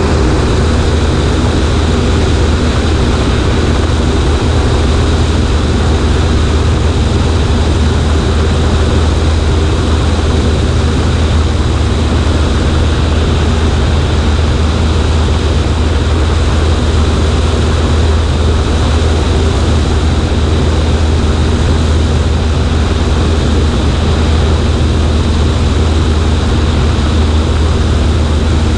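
Cessna 140A's piston engine and propeller droning steadily in flight, heard from a wing-mounted camera with a wide rush of airflow noise over the low, even engine hum.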